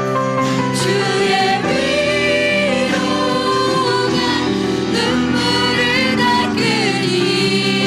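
A church worship band with voices singing a slow praise song, holding long sustained notes.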